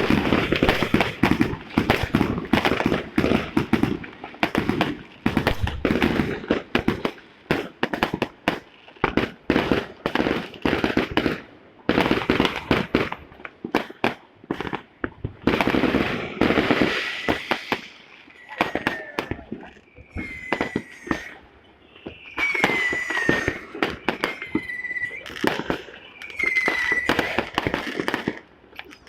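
Fireworks and firecrackers going off in a dense run of rapid bangs and crackles; in the second half the bangs thin out and short, falling whistles repeat every second or two.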